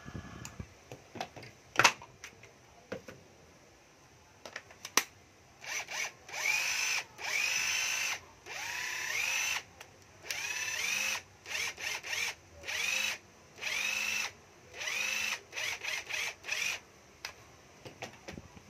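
Hitachi cordless drill run in a string of short trigger pulls, about ten, each one spinning the motor up with a rising whine and stopping again. A few sharp clicks come before the first run.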